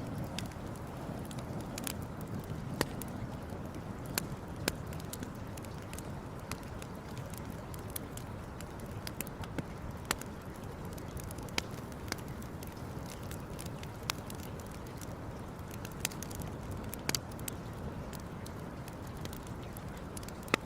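Wood campfire crackling, with sharp pops and snaps at irregular intervals over a steady low rush of burning.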